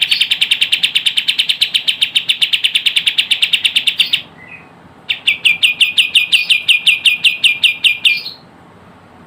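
Kapas tembak bird calls from a lure recording: a fast trill of rapidly repeated high notes for about four seconds, a short pause, then a slower trill of notes that each sweep down for about three seconds before it stops.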